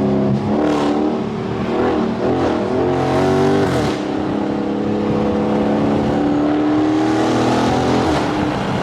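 Car engine under hard acceleration, heard from inside the car: the pitch climbs, drops about four seconds in as it shifts gear, then climbs slowly again in the next gear.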